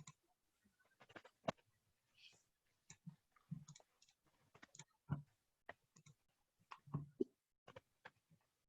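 Faint, irregular clicks and taps of a computer mouse and keyboard, a few a second, as someone edits layer settings in drawing software.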